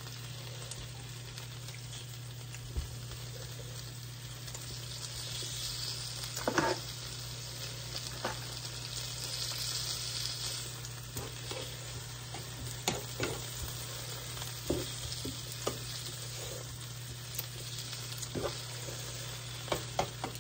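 Smoked turkey leg sizzling in a frying pan as pan juices are spooned over it, with scattered light clicks of a metal spoon against the pan. A steady low hum runs underneath.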